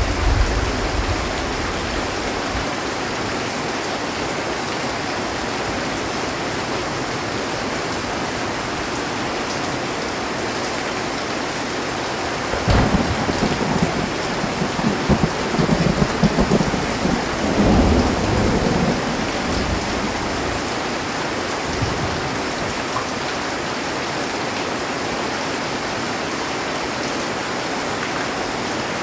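Heavy rain drumming steadily on a metal roof, with a thunderclap about halfway through that cracks sharply and rolls on in low rumbles for several seconds before fading; the tail of an earlier rumble dies away at the very start.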